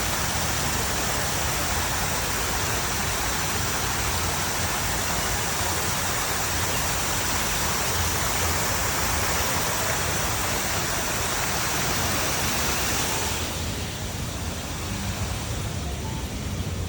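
Cicadas calling in chorus: a dense, steady high buzz that cuts off abruptly about 13 seconds in, over a steady low rumble.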